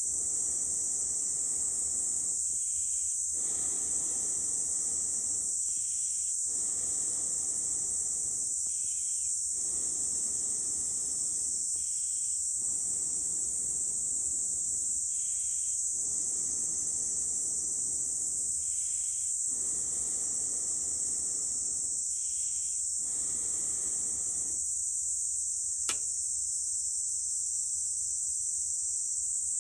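Long breaths blown through a fire-blowing pipe into a campfire's embers: about eight puffs, each roughly two seconds, coming every three seconds with short pauses to inhale, stopping a few seconds before the end. Under them runs a steady, high-pitched chorus of summer insects, with a single sharp click near the end.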